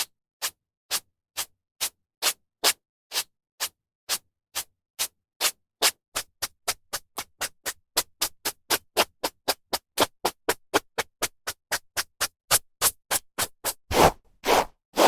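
Hairbrush strokes through hair: short brushing swishes, about two a second at first, quickening to about four a second in the middle. A few longer, louder strokes come near the end.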